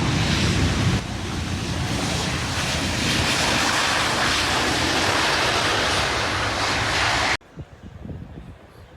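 Jet airliner engines at takeoff thrust: a loud, steady rush of noise that cuts off abruptly about seven seconds in, leaving fainter scattered sounds.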